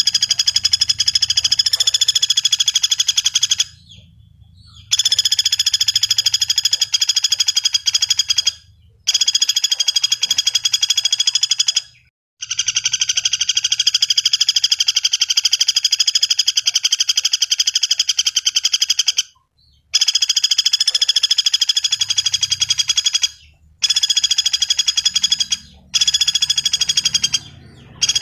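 Common flameback woodpecker (pelatuk bawang) giving fast, rattling trills in long bursts of several seconds each, broken by short pauses, the longest running about seven seconds.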